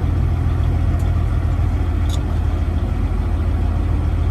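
Freightliner Classic XL semi truck's diesel engine running at low speed, a steady low drone, with two faint clicks about one and two seconds in.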